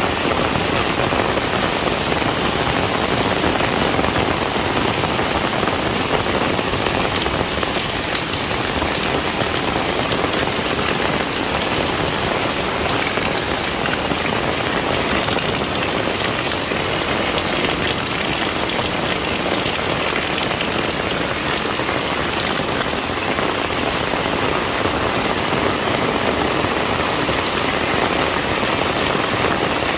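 Heavy rain falling steadily, a dense even hiss with no break or change.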